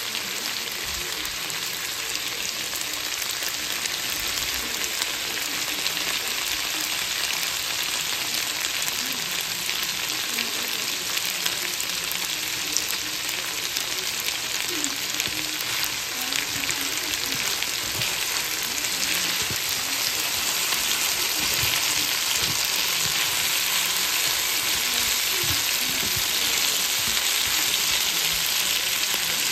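Potato chunks and sliced onions sizzling as they fry in oil in a pan, a steady hiss that grows a little louder in the second half. A spatula stirs through them near the end.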